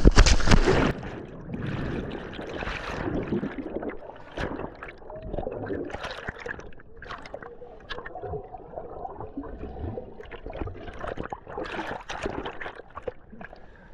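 River water splashing and gurgling around a raft, with irregular knocks and splashes throughout. Wind buffets the microphone for about the first second.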